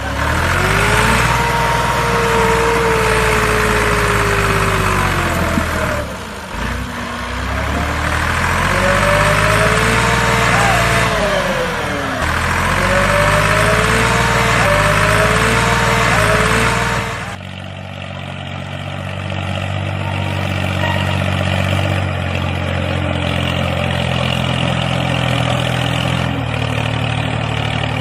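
Homemade mini tractor's small engine running hard, its whine rising and falling several times with heavy mechanical clatter. About two-thirds of the way through it changes suddenly to a lower, steadier running sound.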